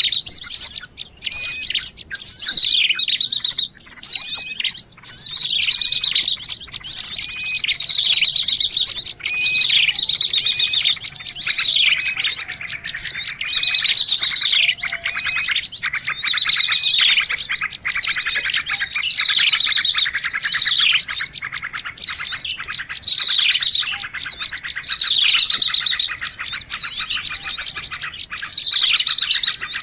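Lure recording of small songbirds chirping and twittering continuously, with a high dense trill and repeated downward-sweeping notes about every second or two.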